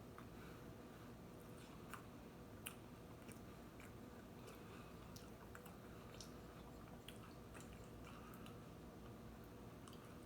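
Faint chewing of a milk-soaked Oreo cookie, with scattered soft mouth clicks, two of them a little louder about two seconds and two and a half seconds in.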